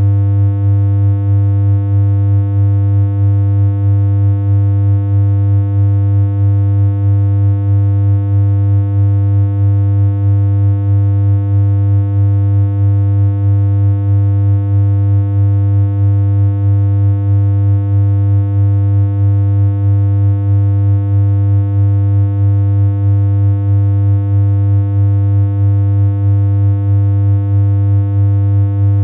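Synthesized electronic hum: one low, unchanging pitch with a buzzy stack of overtones, with a slight regular wobble in loudness.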